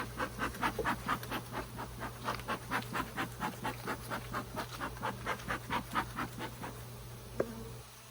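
Bee smoker's bellows squeezed rapidly, puffing air and smoke about four to five times a second, stopping near the end. A single sharp click follows.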